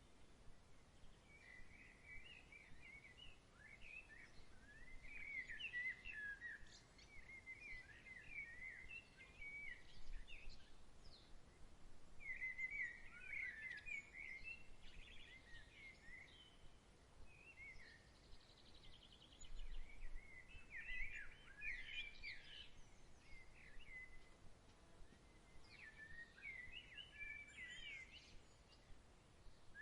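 Songbird singing in about four bouts of quick chirping, warbling notes, each a few seconds long with short pauses between, over a faint steady breeze hiss.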